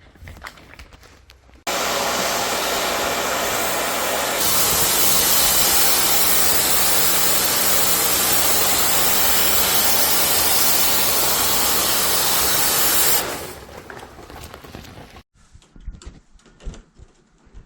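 A motorised cleaning machine runs with a loud, steady rushing hiss over a low motor hum. It starts about two seconds in, grows brighter a couple of seconds later, and cuts off after about eleven seconds.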